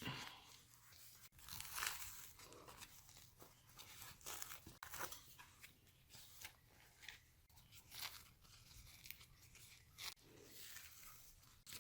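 Thin lumpia wrapper sheets being peeled apart by hand: faint, irregular papery rustling and crinkling.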